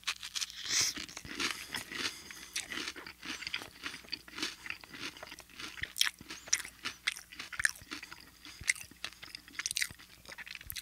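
Close-up chewing of a crisp cracker topped with a creamy spread: a bite at the start, then steady crunching with many irregular small crackles.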